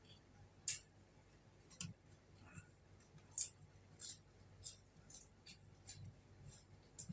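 Eating sounds: a string of short crisp clicks and smacks from chewing and mouth noises, about one or two a second.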